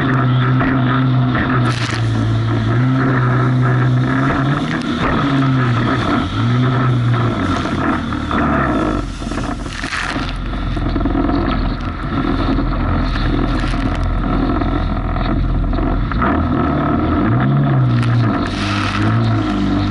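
Jet ski engine running over rough water, its pitch rising and falling again and again as the throttle is worked through the waves, with steady rushing water and wind noise. The engine eases off for a couple of seconds about halfway through.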